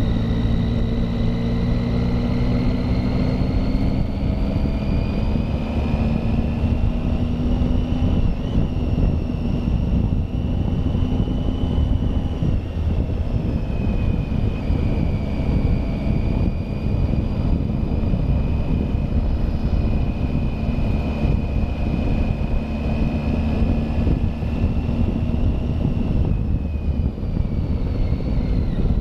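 Triumph Tiger motorcycle engine running under way, its whine rising and falling gently as the speed changes and dropping near the end, over a steady rush of wind noise.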